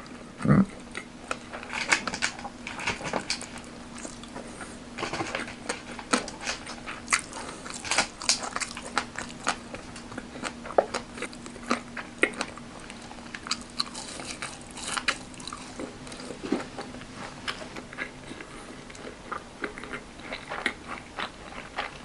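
A person chewing crispy fried food (spring rolls and fried chicken), with irregular crunching crackles.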